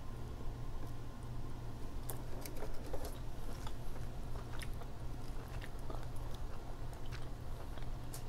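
Close-miked chewing and wet mouth sounds of someone eating king crab meat, with scattered small clicks and crackles as the crab leg shell is handled, over a steady low hum.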